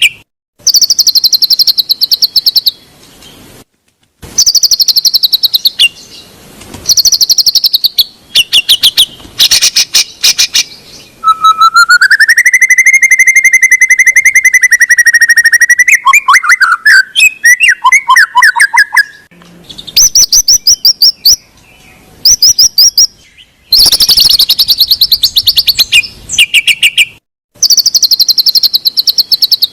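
White-rumped shama (murai batu) song, used as a lure to get a quiet bird singing: bursts of rapid buzzy trills separated by short pauses, with a long rising whistled phrase about eleven seconds in, followed by quick up-and-down notes.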